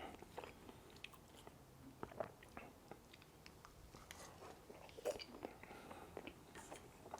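Faint, close-miked chewing: scattered soft mouth clicks and smacks of someone eating, with no speech.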